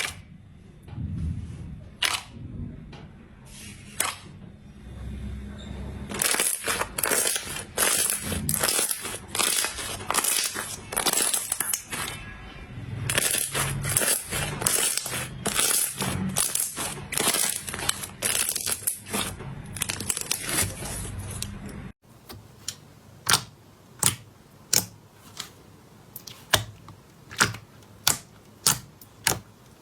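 Slime being pressed and worked by hand, making dense crackling and popping clicks. After a cut near the end, separate sharp pops come about once or twice a second.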